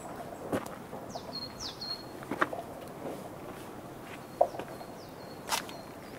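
Small birds calling outdoors: thin high calls that sweep quickly down and settle into a short steady whistle, a couple about a second in and more near the end. A few scattered soft knocks are heard, and one brief low call about four seconds in is the loudest sound.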